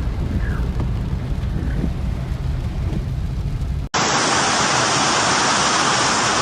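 A low rumble cuts off abruptly about four seconds in. It gives way to the loud, even hiss of heavy rain.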